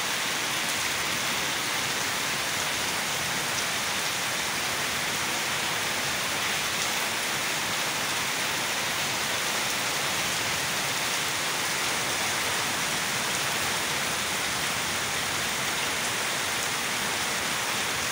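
Rain falling steadily: an even, unbroken hiss of rain on hard surfaces.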